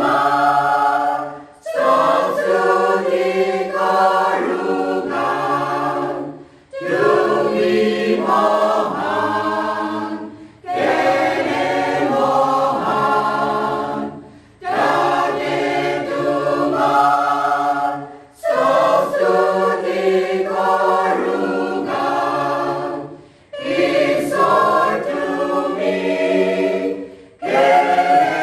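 Choir singing in phrases of about four seconds, each followed by a brief pause before the next phrase.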